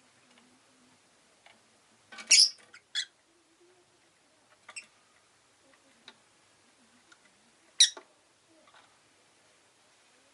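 Rosy-faced lovebird giving short, sharp chirps: a loud one about two seconds in, another near eight seconds, with a few quieter chirps and small clicks between.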